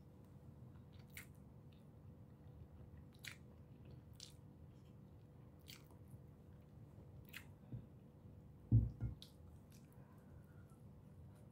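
A person chewing food close to the microphone, with sharp wet mouth clicks every second or two. About nine seconds in comes a single dull thump, the loudest sound, followed by a bite into a slice of fresh tomato.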